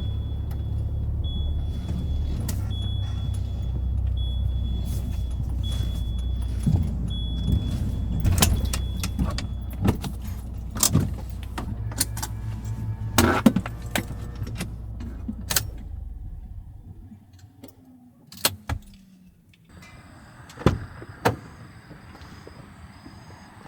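Renault Kangoo running, heard from inside the cabin as a steady low rumble with small rattles and clicks. A high beep repeats about once a second for the first ten seconds. About seventeen seconds in, the engine is switched off and the rumble dies away, leaving a quieter background with faint steady high tones and a few clicks.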